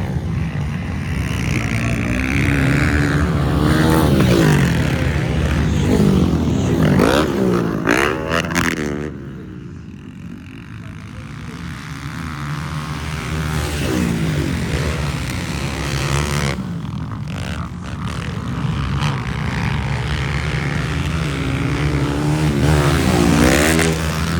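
Motocross motorcycle engines revving hard, pitch climbing and falling again and again as the bikes accelerate and back off, growing quieter for a few seconds around ten seconds in.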